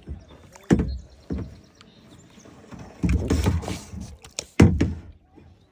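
Kayak paddling: a few sudden splashing paddle strokes and knocks, heard close up through a phone tucked into a life jacket, with the longest splash about three seconds in.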